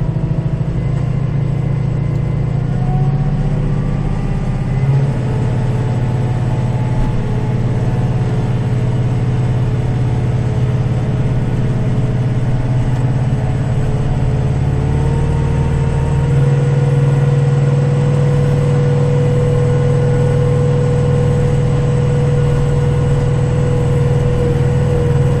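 Kubota diesel tractor engine running steadily with the PTO-driven snow blower engaged, heard from inside the cab; its note rises a little about 15 seconds in and holds there. A brief knock about 5 seconds in.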